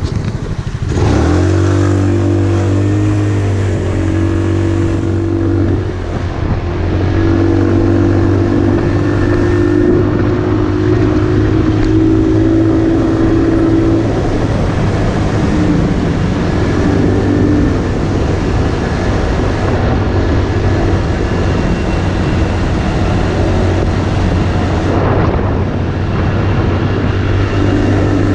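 Motorcycle engine running at steady riding speed, with wind rushing over the microphone. About a second in, the engine note climbs as the bike picks up speed, then holds steady.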